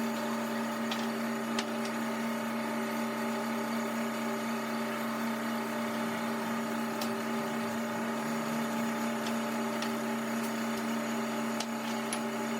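A motor running at a steady speed with an even hum, with a few light clicks over it; it winds down just after the end.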